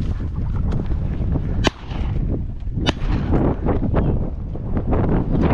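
Two shotgun shots about a second apart, fired at flushing upland birds, over a steady rumble of wind on the microphone.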